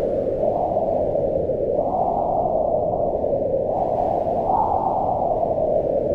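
Wind blowing in gusts: a low rushing howl that swells and eases every second or two.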